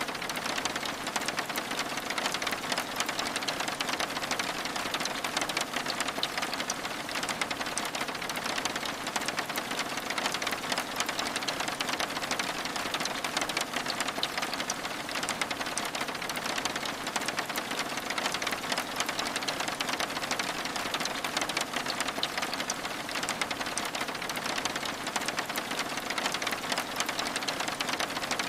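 Steady rain falling on a window, a dense even hiss of many fine drop ticks with no change in strength.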